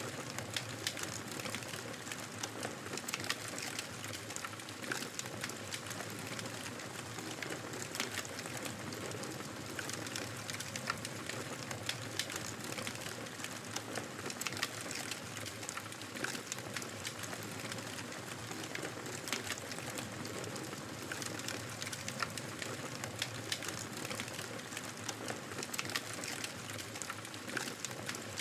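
Wood fire crackling steadily: a soft hiss with frequent sharp pops and snaps scattered irregularly throughout.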